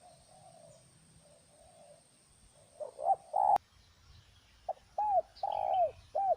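Spotted doves cooing: faint coos in the background, then a loud close bird gives two phrases of arched coo notes, about three seconds in and again near the end, with a sharp click between them.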